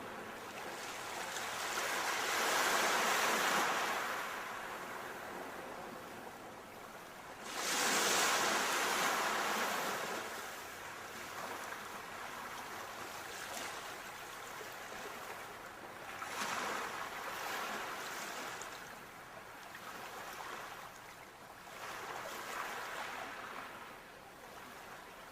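Ocean waves breaking on a shore, each surge of surf swelling up and then washing back, several times over. The strongest break comes suddenly about eight seconds in.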